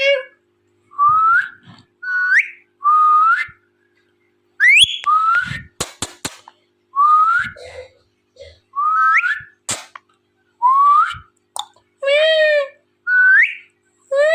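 Indian ringneck parrot whistling: a series of short whistles, each sliding upward, about one a second, with a few sharp clicks about five seconds in. Near the end come two harsher, rasping calls.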